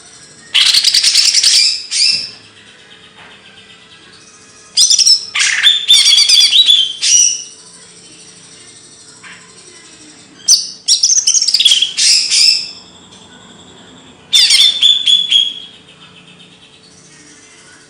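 A songbird singing loud bursts of rapid chattering trills, four phrases of one to three seconds each separated by pauses. It is birdsong 'materi', the recorded song played to train caged songbirds.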